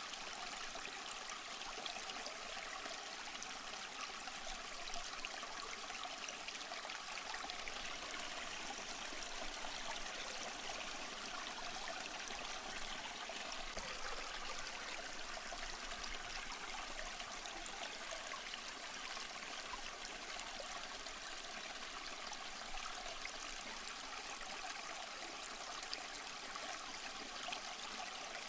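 Small stream flowing and trickling over rocks, a steady even babble of water with no break.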